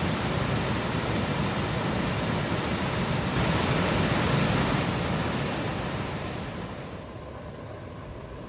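A steady rushing noise with no clear pitch or rhythm that swells around the middle and fades down about six to seven seconds in.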